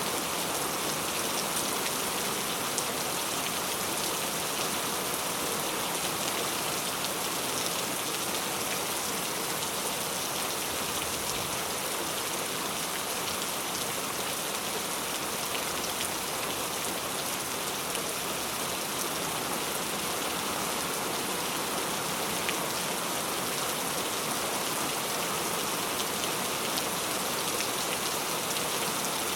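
Heavy rain falling steadily, a dense even hiss of drops with faint individual patters on a surface.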